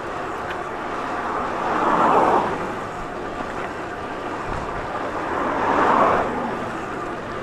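Steady road noise, with two vehicles passing, each swelling up and fading away, about two seconds in and again about six seconds in.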